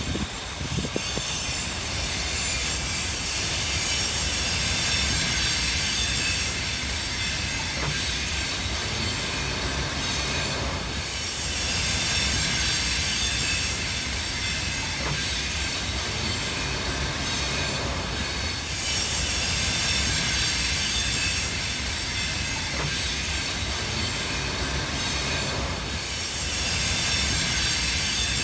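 Freight train wagons rolling along the rails: a continuous rumble and wheel clatter with a high metallic ringing from the wheels, swelling and easing every several seconds.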